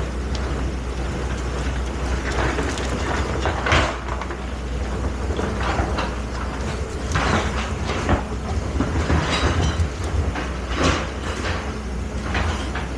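Excavator's diesel engine running steadily under load, with repeated scraping and knocking noises every second or so as the machine works.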